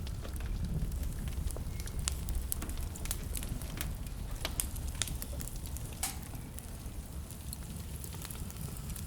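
Wood fire crackling, with irregular sharp pops and snaps scattered through it, over a steady low rumble.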